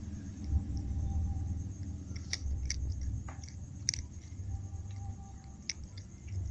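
Ginger cat chewing its food, with a handful of sharp crunching clicks over a low steady rumble.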